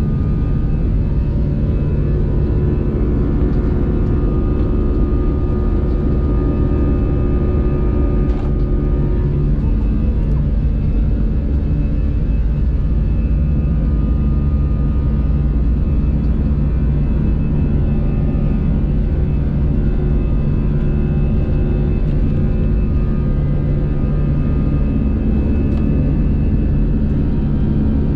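Airbus A320 jet engines heard from inside the cabin: a steady, loud low rumble with several held humming tones over it.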